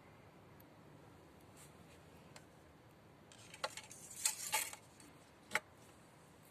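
Faint room tone. About three seconds in come a few light clicks and a short scratchy rustle, and a second later one sharp click: something small being handled.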